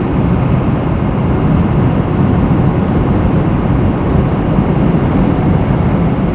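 Steady road and engine noise of a vehicle driving at highway speed, a constant low rumble without change.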